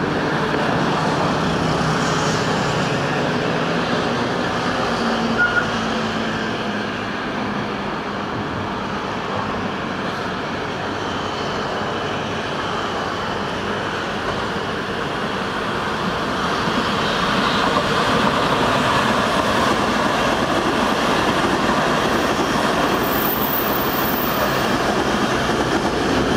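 Taiwan Railway local passenger train running on the rails, a steady rumble of rail noise that grows a little louder in the second half.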